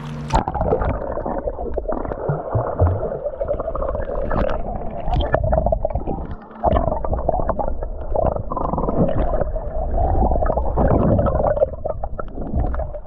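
Muffled sound from a camera submerged in sea water: low rumbling and gurgling of water moving around the microphone, with all the higher sounds cut off. There is a short dip about six and a half seconds in.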